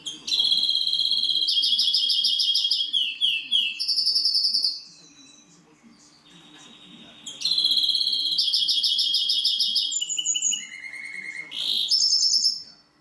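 Greenfinch × canary hybrid (mule) singing. Two long phrases of fast trills and rattling notes, with a pause of about two and a half seconds between them.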